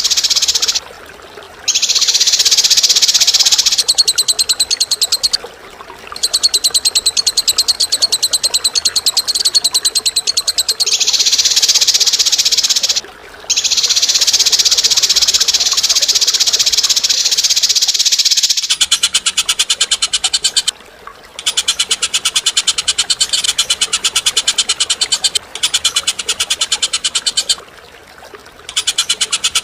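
Cage bird singing harsh, high-pitched rapid rattling trills in long phrases of several seconds, separated by short pauses, with a finer, faster rattle about two-thirds of the way through.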